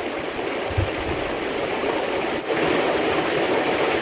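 Steady rushing noise of running water, briefly dipping about two and a half seconds in and then coming back a little louder.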